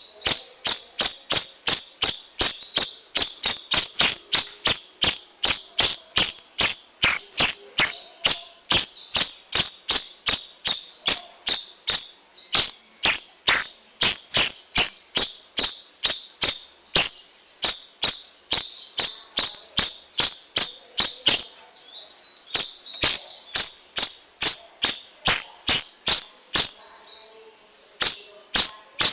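Cucak rawis songbird calling in a fast, steady string of sharp, high chirps, about three a second, breaking off briefly twice near the end.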